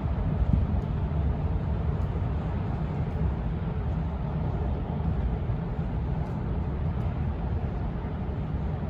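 Steady low mechanical rumble in a metro station, even throughout with a few faint ticks.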